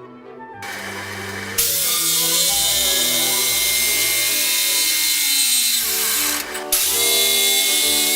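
Electric power tool running loud on wood, its motor whine climbing to full speed; it stops briefly about six and a half seconds in and spins up again. Background music plays underneath.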